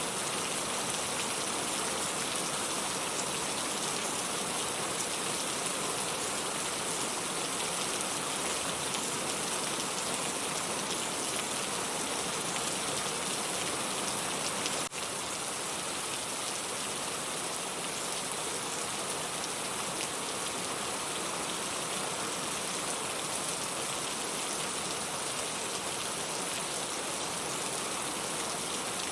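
Steady rain falling as an even, unbroken hiss, used as pink-noise sleep sound. About halfway through there is a brief click, after which it runs slightly quieter.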